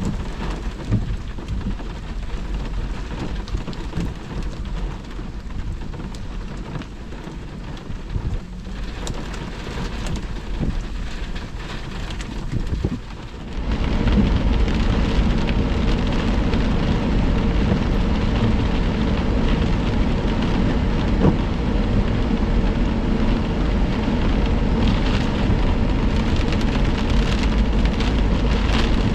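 Heavy thunderstorm rain pouring, with thunder rumbling. About halfway through the rain suddenly becomes louder and heavier.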